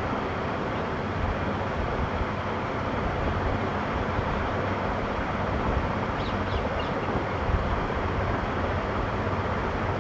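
Steady rushing outdoor noise, with a few brief high bird chirps about six seconds in.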